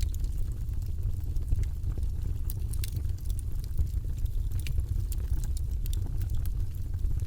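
Wood fire burning in a fireplace, with a steady low rumble and irregular sharp crackles and pops as the logs burn.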